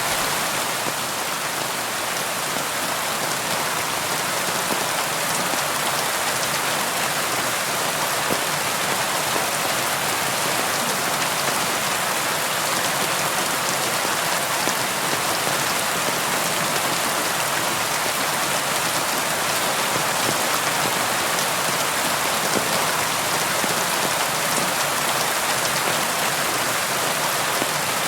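Steady, even rainfall: a dense hiss of drops striking a surface, with fine individual drop ticks and no thunder.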